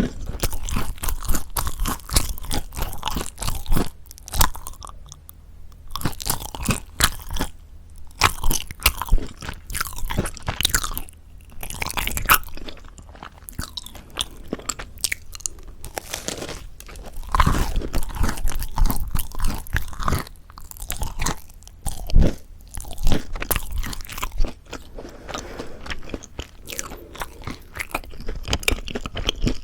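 Close-miked bites and chewing of crispy mocha bread: dense crackling crunches of the crisp crust, broken by a few brief pauses.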